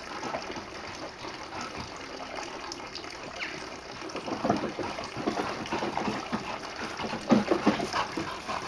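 Dog playing with a deflated football: a steady rushing noise, then a busy run of scuffs and knocks from about halfway, loudest near the end.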